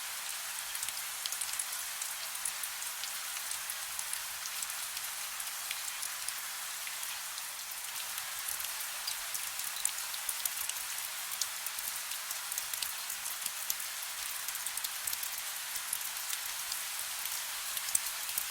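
Steady soft rain: a continuous hiss of rainfall, with the fine crackle of many small drops ticking on a surface.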